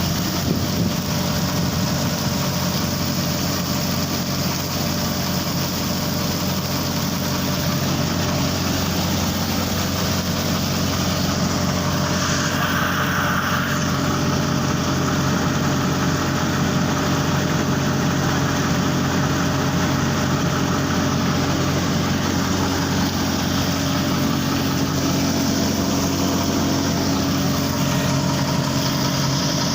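Excavator's diesel engine running at a steady, even speed, a constant low drone, with a brief higher-pitched noise layered on about twelve seconds in.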